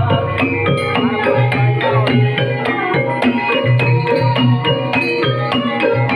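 Live Banyumasan gamelan playing the ebeg trance accompaniment: steady hand-drum patterns under interlocking struck mallet-instrument melodies.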